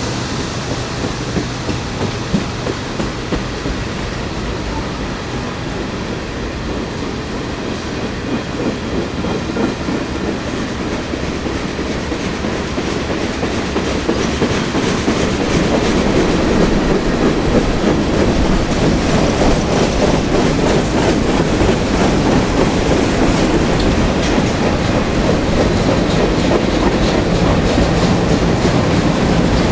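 CSX freight train rolling past, its steel wheels clacking on the rails. It gets louder about halfway through.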